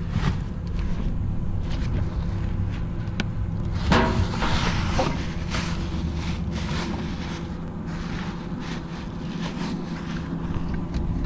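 Truck engine idling with a steady low hum, with scattered knocks and a rustle about four seconds in.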